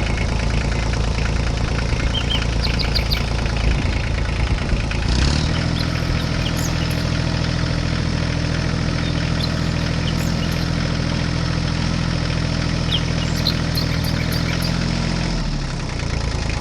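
An engine running at a steady idle. About five seconds in, a steadier low hum sets in over it and cuts off about a second before the end.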